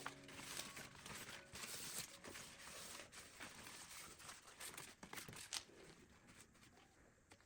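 Faint rustling and crinkling with scattered light clicks, from small things being handled at close range, fading out in the last second or two.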